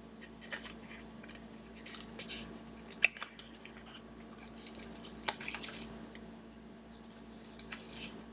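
Trading cards being handled: soft sliding and rustling with scattered light clicks and taps, and sharper clicks about three and five seconds in.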